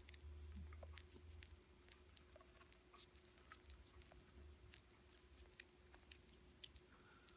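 Faint, irregular wet clicks and smacks of an opossum chewing potato salad, over a low steady hum.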